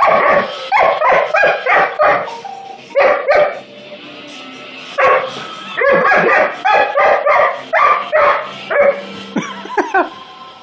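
Dog barking at a robot vacuum cleaner in quick runs of short barks, pausing for a moment about four seconds in and then barking on.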